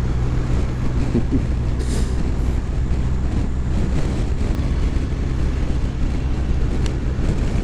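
Motorcycle cruising at steady speed: a constant engine drone under wind and road noise.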